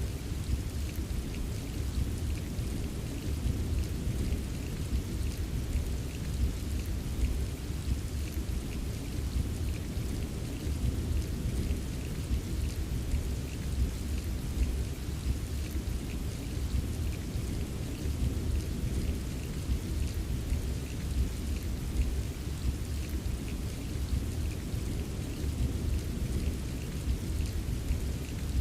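Steady rain, a dense patter of small drop ticks over a continuous deep low rumble, with no single clap or break.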